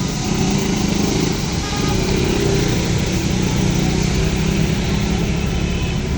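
Small vehicle engine running close by, steady, growing louder just after the start and then holding.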